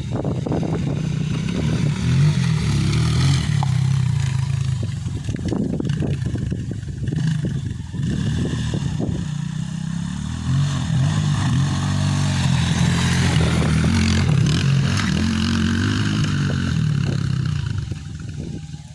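Motocross dirt bike engine running hard, its pitch rising and falling repeatedly with the throttle, dropping away about a second before the end.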